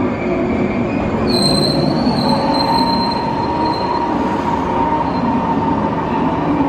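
115-series electric train rolling slowly into the station platform, braking, with a steady rumble of wheels on rail. About a second in, a high-pitched brake squeal starts and fades after a few seconds, and a lower squealing tone joins it after about two seconds and holds as the train slows.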